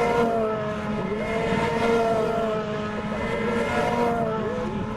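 Renault Clio Cup race cars' engines running on track, several engine notes overlapping and rising and dipping slightly in pitch.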